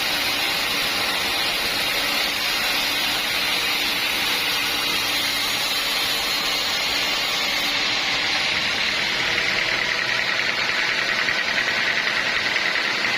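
Sawmill machinery running steadily, a continuous hissing rush with a faint engine hum beneath it. A higher whine grows stronger over the last few seconds.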